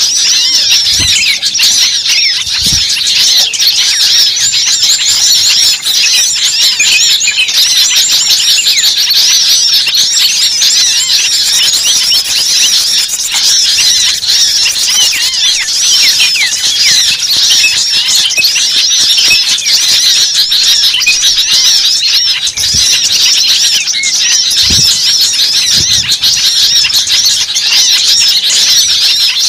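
A dense, continuous chorus of many birds chirping and squawking at once, their short arching calls overlapping without a break.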